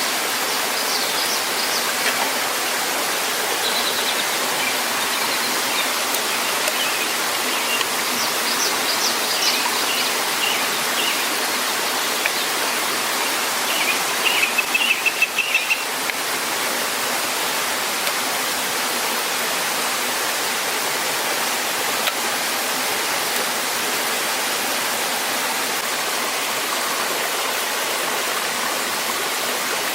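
Steady rush of a waterfall, with small birds chirping now and then in the first half.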